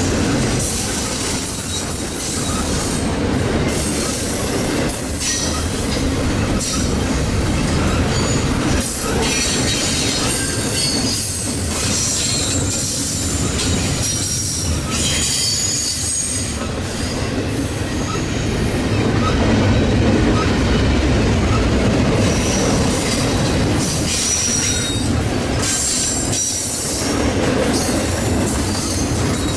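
Double-stack intermodal train's well cars rolling past: a continuous rumble and rattle of steel wheels on the rails, with short high wheel squeals coming and going.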